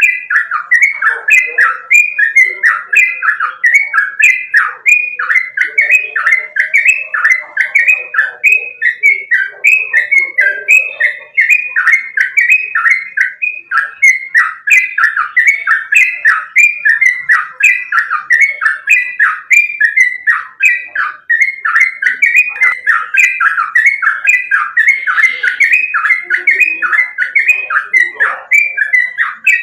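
Yellow-vented bulbul (trucukan) singing a fast, unbroken run of short whistled notes, each sliding downward, several a second.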